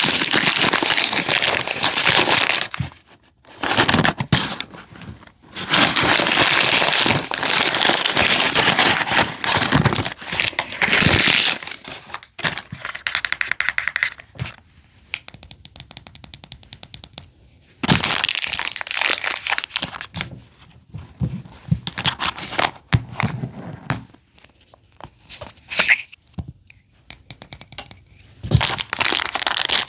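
Plastic wrappers crinkling and tearing in stretches of several seconds, broken by short pauses, with sharp clicks and knocks from small plastic miniature items being handled.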